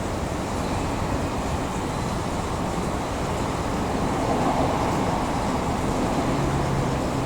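Steady rumble of a vehicle running, with a slight swell about two-thirds of the way through and no distinct knocks or horns.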